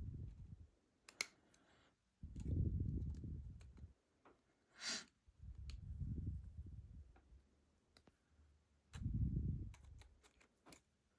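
Scattered small clicks of a slider fork and short hook picking the sliders of an ASSA Desmo slider lock, just before it opens, with a few soft low rumbles in between.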